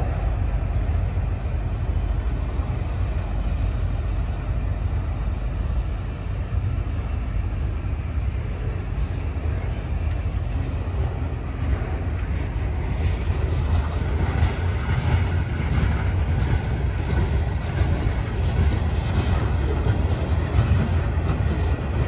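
A mixed freight train's cars, autoracks, tank cars and covered hoppers, rolling past close by: a steady, loud rumble of wheels on rail.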